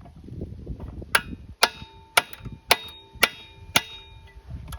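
A hammer strikes a steel socket wrench bar set in the spark plug hole of a seized Briggs & Stratton flathead lawn mower engine. There are six sharp metallic blows about half a second apart, each leaving a short ringing tone. The blows are meant to free a cylinder locked up with sand, but in this flathead they land on the valve.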